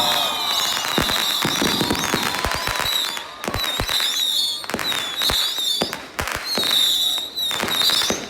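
New Year's fireworks going off in rapid succession: dense cracks and bangs, with shrill whistling tones over them.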